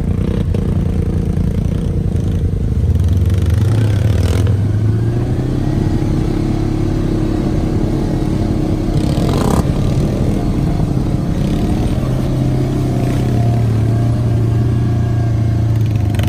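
Side-by-side UTV engine running under way, its revs climbing a few seconds in and again later, with the rattle and clatter of the machine over rough ground and a couple of sharp knocks.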